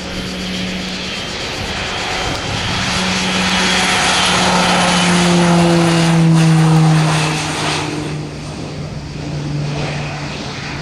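Let L-410 Turbolet's twin Walter M601 turboprops at high power as the aircraft passes the camera. The propeller tone grows louder, peaks just past halfway and drops in pitch as it goes by, then fades.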